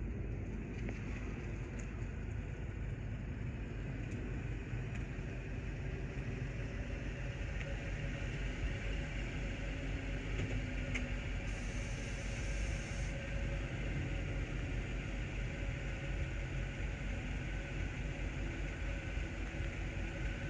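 Airbus A330-900's Rolls-Royce Trent 7000 turbofan engines passing low overhead on approach to land: a steady jet rumble with a faint whine, growing a little louder and brighter over the seconds.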